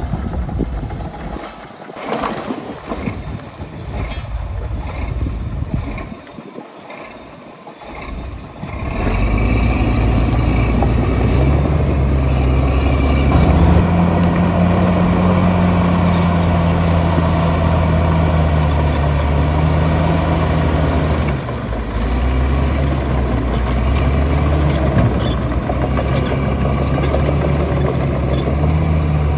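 Heavy diesel engine of a bulldozer or dump truck, fainter at first with a run of short knocks, then running loud and close from about nine seconds in as a steady low drone whose pitch shifts now and then.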